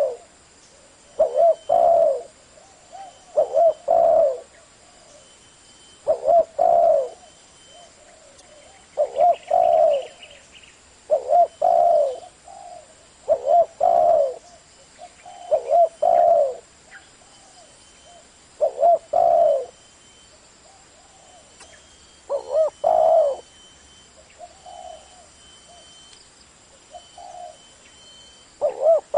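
Spotted dove cooing: loud low coo phrases repeated about every two to three seconds, with softer coos in between. It is the deep 'thổ'-voiced call that bird-keepers play to stir wild doves into answering.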